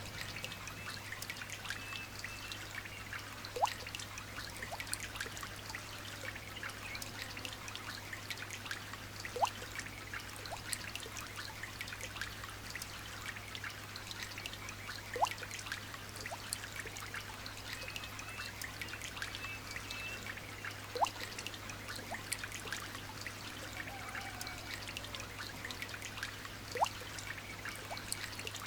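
Light rain pattering in a dense stream of small drops. A louder single drip plops about every six seconds, five times in all.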